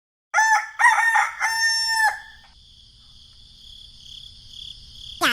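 A rooster crows once, a three-part rising-and-held cock-a-doodle-doo about two seconds long. Afterwards a steady, quieter high chirring of crickets carries on.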